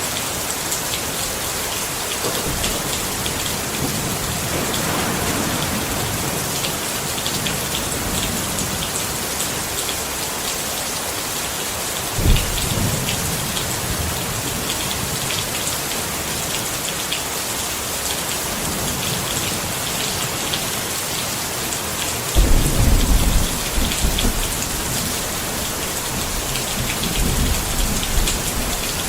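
Steady rain falling on a tent, with thunder: a sudden clap about twelve seconds in, a louder rolling rumble a few seconds long beginning about ten seconds later, and a weaker rumble near the end.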